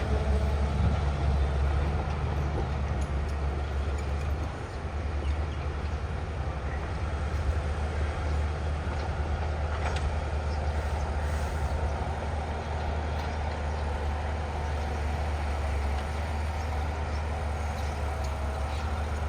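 Heavy diesel engine of earthmoving machinery running steadily at a low pitch, a little louder in the first couple of seconds.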